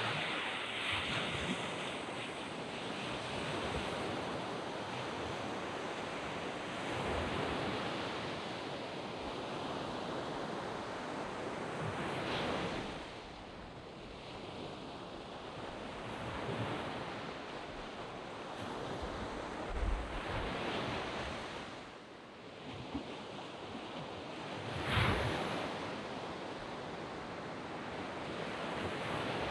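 Waves breaking and washing up a sandy beach, a steady surf noise that swells and eases every few seconds, with wind buffeting the microphone now and then.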